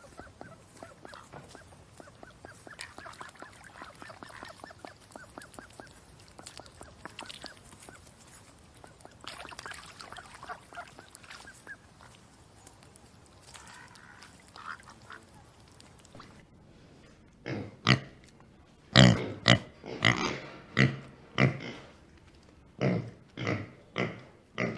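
Pigs grunting: a dense, busy stretch of small grunts and clicks, then a louder run of about a dozen short grunts near the end.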